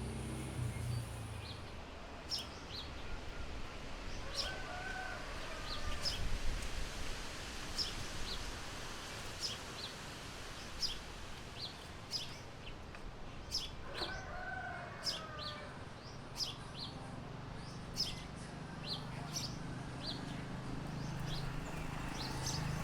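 Morning ambience with small birds chirping over and over and a chicken calling twice, once about five seconds in and again about fourteen seconds in, over a steady low background hum.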